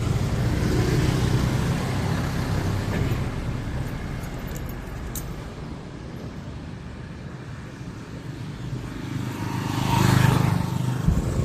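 Street traffic: a vehicle engine fading away over the first few seconds, then another motor vehicle passing close, loudest about ten seconds in.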